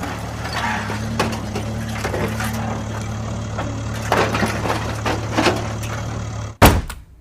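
A small motor running steadily with a low hum, with crackling and crunching over it. It cuts off after a sharp knock a little before the end.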